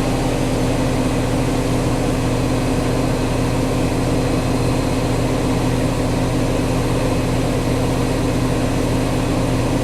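Whirlpool Duet Sport front-load washer spinning at full speed in its final spin: a steady hum of the motor and drum. The load is well balanced, and the spin runs without the fault that used to stop it here.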